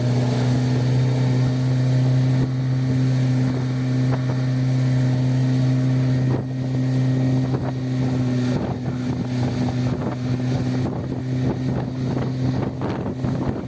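Motorboat engine droning at a steady pitch, with wind buffeting the microphone in the second half.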